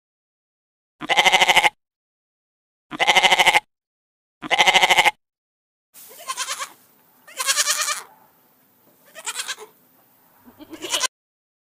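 Young goats bleating: three loud, wavering bleats in the first half, then four shorter, fainter bleats over a faint hiss.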